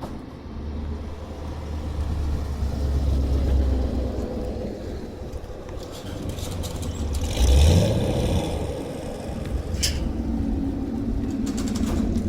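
Cars driving past at low speed, their engines giving a steady low rumble. One passes close just past halfway, swelling to the loudest point before fading. There are a couple of short clicks near the end.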